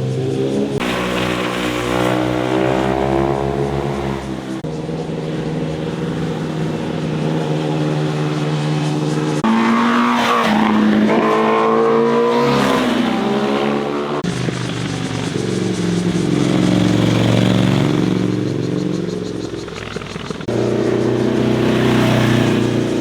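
Motorcycle engines passing through a curve, revving up and down as the riders shift through the gears, in a series of short clips that change abruptly every few seconds.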